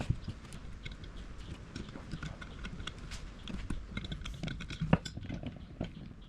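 Irregular light clicks and taps of small objects being handled, with one sharper knock about five seconds in.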